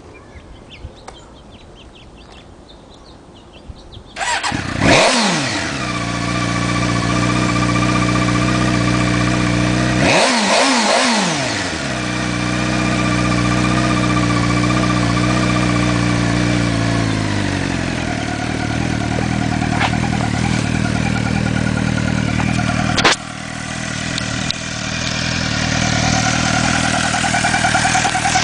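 2007 Suzuki GSX-R 600's inline-four engine catching about four seconds in, blipped up twice, then running steadily and dropping to a lower idle speed. A sharp click comes near the end, followed by a higher buzzing over the idle: the strange noises the owner hears after ignition and while idling.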